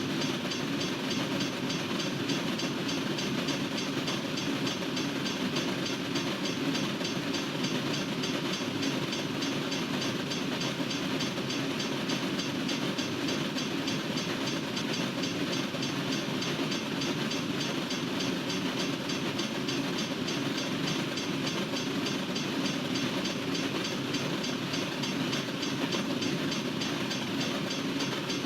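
Freight train cars rolling steadily past on the rails, a continuous, even rumble and rattle that neither builds nor fades.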